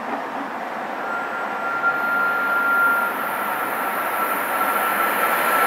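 An approaching commuter train growing steadily louder, with a thin steady high whine setting in about a second in.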